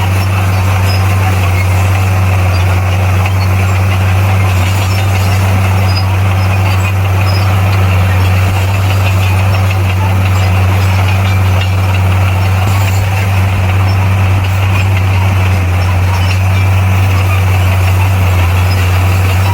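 Diesel engine of heavy earthmoving equipment running steadily, a loud low drone that holds one pitch throughout.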